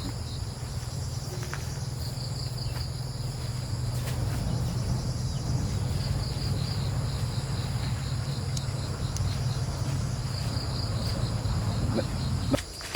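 Crickets or similar insects trilling steadily at a high pitch, with a pulsing chirp in the mix. Under them a loud, low, steady hum cuts off suddenly near the end.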